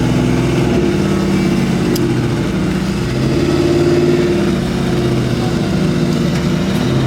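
An old Ford Mustang's engine revving alongside, its pitch rising and falling several times between revs and idle.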